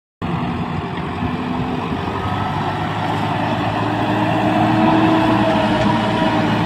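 Heavy diesel engine of a JCB backhoe loader or tractor running steadily under load, its pitch and loudness creeping up slightly over the first few seconds.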